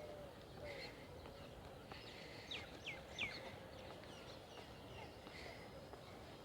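Small birds chirping faintly over a steady outdoor background hiss, with three quick downward-sliding chirps about halfway through.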